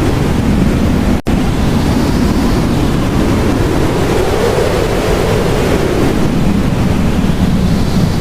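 Blizzard wind blowing in a steady, loud rush with slow swells, broken by a brief dropout about a second in.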